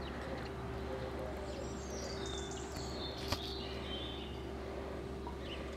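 Steady outdoor background hum with a constant faint tone, and a few faint high bird chirps, falling in pitch, between about one and three seconds in; a single sharp click follows a little after.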